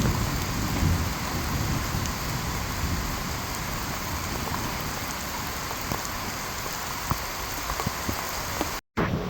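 Steady rain falling, with scattered drops ticking on nearby surfaces and a low rumble in the first second. The sound cuts out abruptly near the end.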